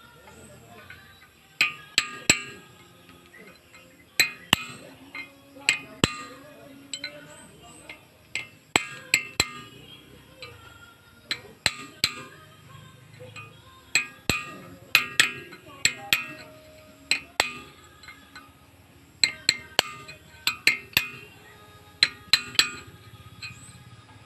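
Hammer strikes on metal, irregular and often in quick pairs or threes, each with a short metallic ring, during work on a backhoe's hydraulic cylinder to change its packing.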